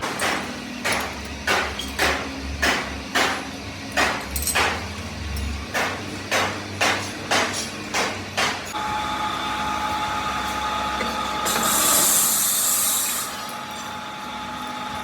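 Repeated blows, about two a second, struck evenly for about nine seconds and then stopping; after that a steady mechanical hum with a short burst of hiss around twelve seconds in.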